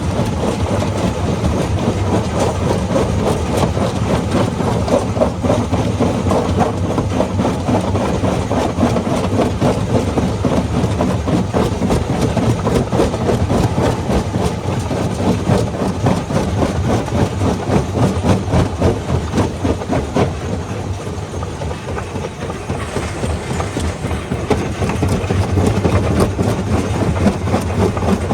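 Rock crusher running: a continuous dense clatter of stones being broken, over a steady low engine hum. The clatter eases briefly about three-quarters of the way through, then picks up again.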